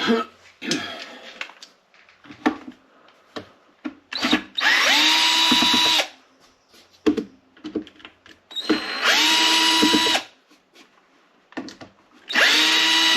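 Cordless drill/driver (screw gun) running in three short bursts of about two seconds each, spinning up and winding down each time, as it backs out the screws holding the coffee machine's base. Small clicks and handling knocks come between the bursts.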